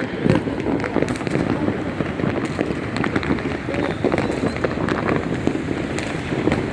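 Fireworks and firecrackers going off all around without a break: many overlapping bangs and crackles that merge into a continuous rumble.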